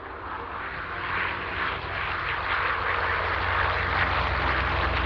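Big radial piston engines of F4U Corsair fighters running and growing steadily louder, a deep pulsing rumble under a propeller roar.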